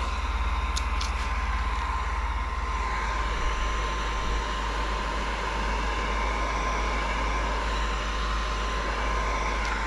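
Heat gun blowing steadily with a constant whine, used to heat-shrink dry window tint film onto curved car door glass.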